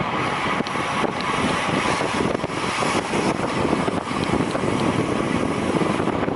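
Steady rushing wind buffeting the microphone of a camera carried by a racer moving at speed.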